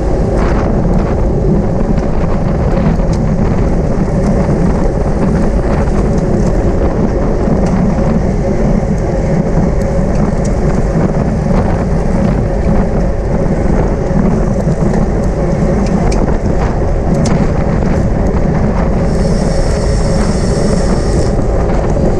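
Wind rushing over the microphone of a camera on a racing bicycle at speed, a loud, steady rumbling noise. A high, even buzz cuts in for about two seconds near the end.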